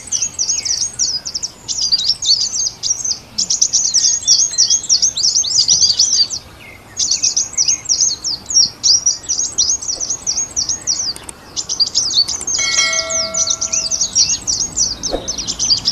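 Small birds twittering in a dense, rapid stream of high chirps, with a short break about six and a half seconds in. A brief steady tone sounds under the chirping about thirteen seconds in.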